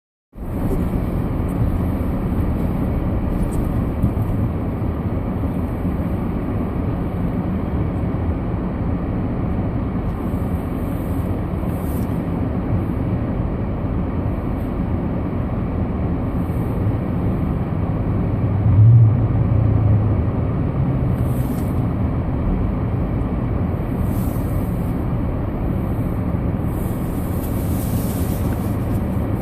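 Steady in-cabin rumble of a Ford Fusion driving on a snow-covered road: engine and tyre noise, with a brief louder low swell about two-thirds of the way through.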